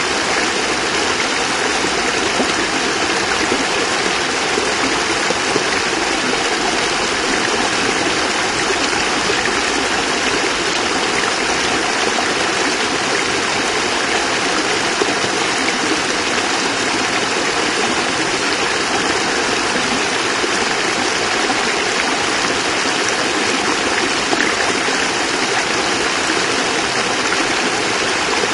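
Small cascade of water splashing and rushing steadily over rocks, an even rushing sound with no breaks.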